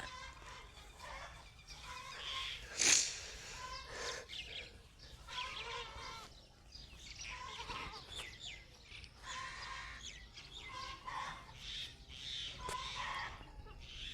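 Farmyard animal and bird calls: many short chirps and clucks overlapping throughout, with one loud, sharp sound about three seconds in.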